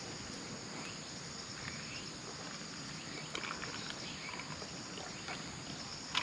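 Crickets and other autumn insects chirping steadily in a high band, over faint outdoor background noise with a few soft ticks.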